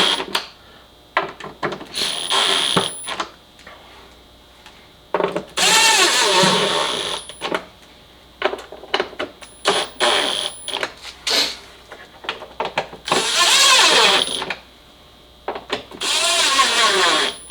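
Cordless drill/driver running fasteners down in three short bursts, its pitch bending as it loads, with clicks and knocks of parts and tools being handled in between.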